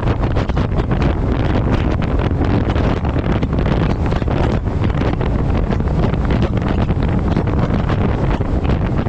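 Heavy wind buffeting a camera microphone mounted on the front of a moving truck: a loud, steady low rumble with rapid flutter.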